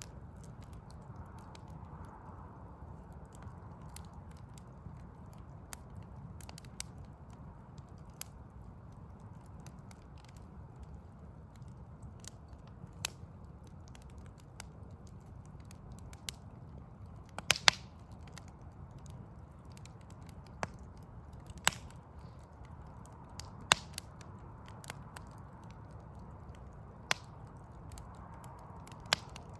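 Backyard wood fire burning, with irregular sharp pops and crackles of burning logs, the loudest a quick pair about halfway through, over a steady low rumble.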